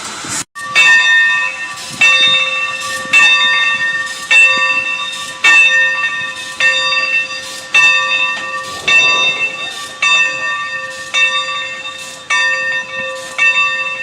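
Locomotive bell of Santa Fe 4-8-4 steam locomotive 2926 ringing steadily, about one stroke a second, each stroke ringing on. A short hiss is cut off about half a second in, just before the bell starts.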